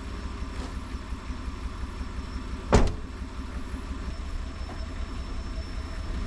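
A vehicle engine running steadily at idle, with one sharp knock a little under three seconds in.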